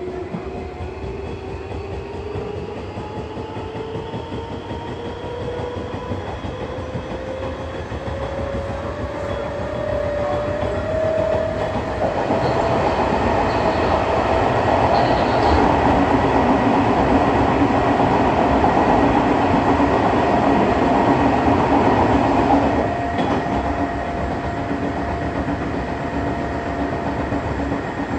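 Onboard running sound of an Odakyu 8000 series train with field-chopper control: the motor whine rises steadily in pitch as the train accelerates, then holds level once it is up to speed, under loud wheel and track noise. The running noise eases somewhat about two thirds of the way through.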